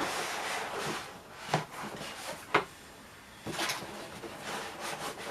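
Cardboard scraping and rubbing as a tight inner box is worked out of its shipping box, with two sharp knocks about a second and a half and two and a half seconds in.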